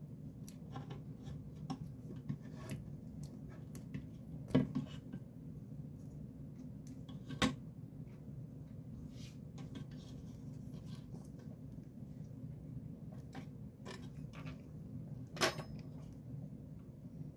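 Scattered light clicks and taps of small parts and tools being handled, over a steady low hum, with three sharper knocks at about four and a half, seven and a half and fifteen and a half seconds in.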